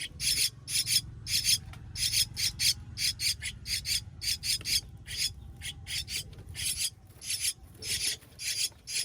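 Baby bird giving harsh, raspy calls over and over, in quick runs of two or three, about three calls a second.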